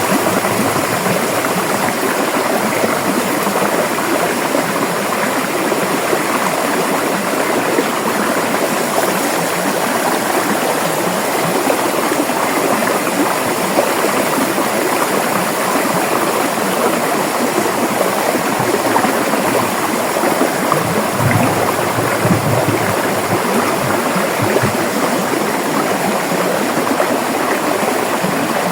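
River water running and gurgling over rocks in a steady, dense rush, with a little more low rumble around two-thirds of the way through.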